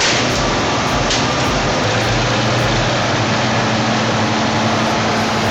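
Heavy diesel machine running steadily under a dense wash of noise, with a steady hum that comes in about two seconds in.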